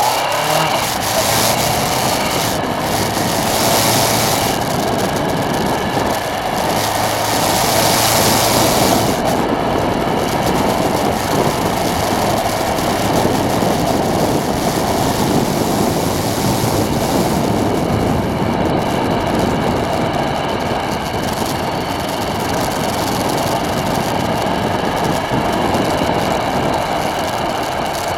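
Strong storm wind blowing loudly and steadily, with harder, hissier gusts during the first nine seconds.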